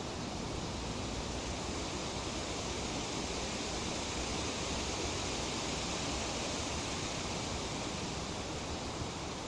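Wind through tree leaves, a steady, even rustle that swells slightly midway and eases again.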